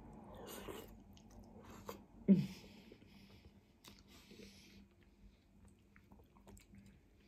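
Close-up chewing and biting of spicy rice cakes, rice noodles and egg, with light clicks of a fork in the pan. About two seconds in comes one short, loud sound that falls in pitch.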